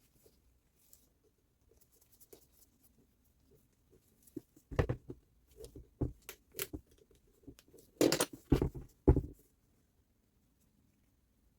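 Irregular clicks and knocks of hard parts being handled, with a cluster of louder knocks about eight to nine seconds in.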